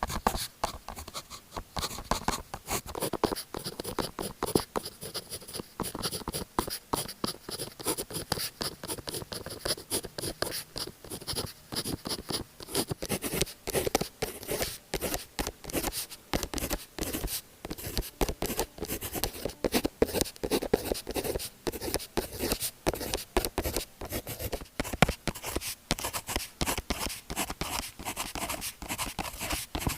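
Pen writing on notebook paper: a quick, irregular run of short scratching strokes with small pauses between words.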